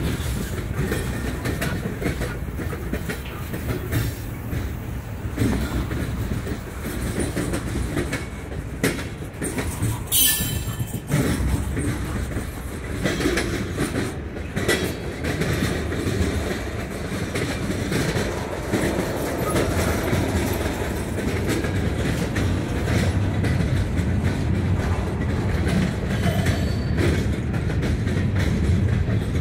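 Freight train cars rolling past at close range: a steady rumble of steel wheels on rail with repeated clicks as the wheels cross rail joints, and a brief high-pitched squeal about ten seconds in.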